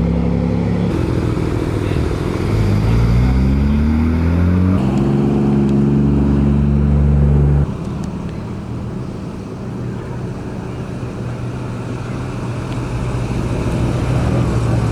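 A car's engine accelerating, rising in pitch, then held at a steady higher note until it cuts off suddenly about halfway through. After that comes a quieter, steady rumble of engines.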